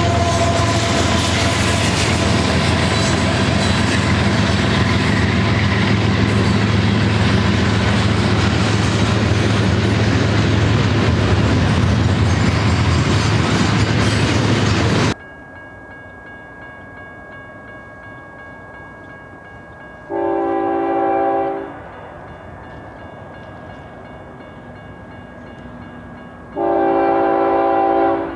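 A freight train's diesel locomotives and cars pass close by with a loud, steady rumble that cuts off abruptly about halfway through. Then a distant train's horn sounds two long blasts about six seconds apart.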